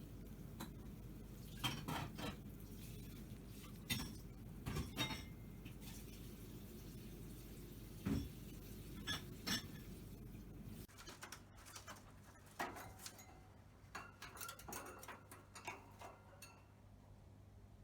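Cockatiel gnawing and nibbling with its beak: scattered light clicks, taps and scrapes. A low background hum cuts out about two-thirds of the way through.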